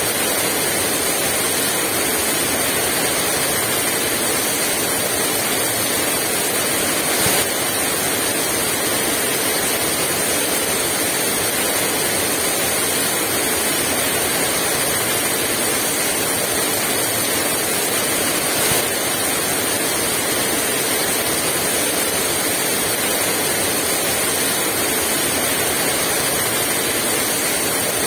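Heavy rain falling steadily, with no wind, an even hiss of downpour. Two brief, slightly louder hits about 7 and 19 seconds in.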